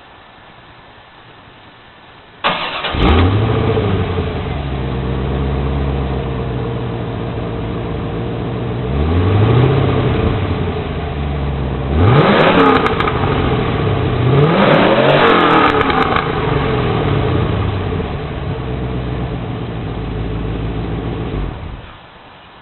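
1990 Corvette's L98 5.7-litre V8 starting and running through long-tube headers: it catches about two and a half seconds in, idles, and is blipped several times, then is switched off near the end.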